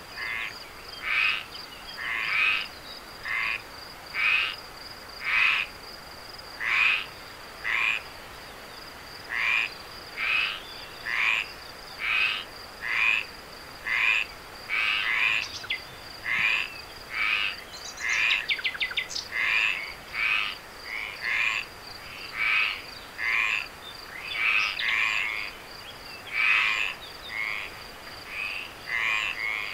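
Frogs calling at night, short croaking calls repeating about once a second, over a steady high-pitched insect trill. A brief quick rattle of clicks comes about midway.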